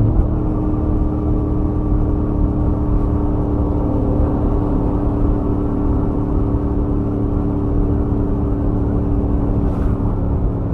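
Royal Enfield Interceptor 650's stock-exhaust 648 cc parallel-twin engine running under load at highway cruise, its note holding a steady pitch, with wind and road noise.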